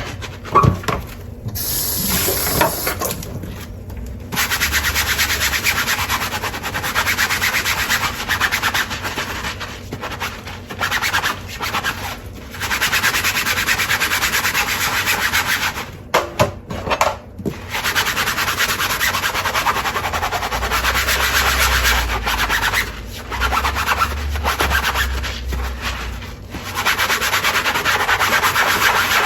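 Dishes being scrubbed by hand with a sponge, in long scratchy strokes broken by short pauses. A few dishes clink against each other near the start and again about halfway through.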